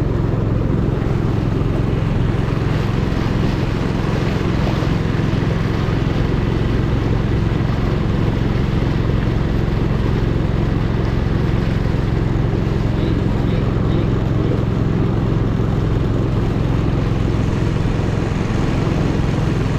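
Longtail boat's engine running steadily under way, a constant low droning hum with no change in pitch.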